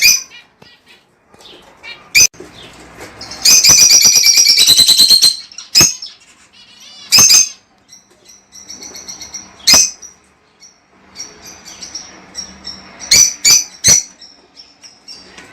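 Lovebirds calling: loud, shrill shrieks scattered throughout, with a rapid chattering run of repeated notes a few seconds in.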